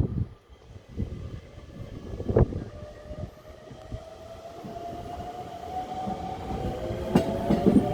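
Chiba New Town Railway 9800-series electric train pulling away from a station. The whine of its traction motors rises slowly in pitch as it gathers speed, over the rumble of the wheels. There is a sharp knock about two and a half seconds in and another near the end.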